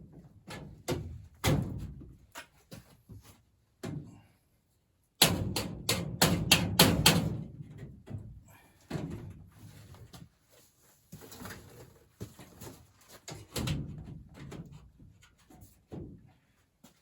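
Scattered knocks, clicks and clanks of hand work on a furnace's metal fittings, with a quick run of loud strikes about five seconds in.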